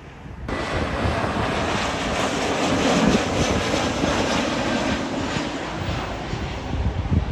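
Jet airliner's engines, loud and steady, starting abruptly about half a second in and easing slightly near the end.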